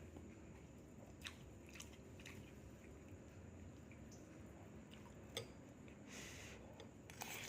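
Faint chewing: a few soft, scattered mouth clicks and smacks over low room noise.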